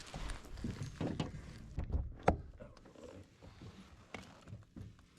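Handling noise: scattered soft knocks and rustles, with one sharp knock a bit over two seconds in.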